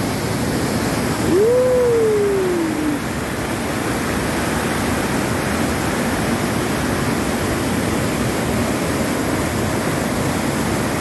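Iguazu Falls waterfall: a steady, heavy rush of falling water. About a second in, a single short call slides up and then down over it.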